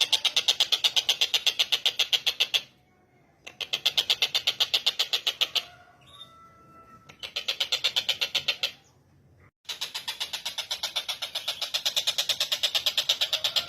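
Tengkek buto bird calling a fast, even chatter of about eight notes a second, in four bouts broken by short pauses, with a few faint short notes in the gaps.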